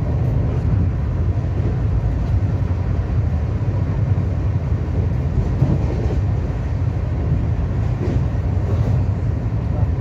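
Steady low rumble of a moving express train, heard from inside the passenger coach: wheels running on the track and the coach body vibrating.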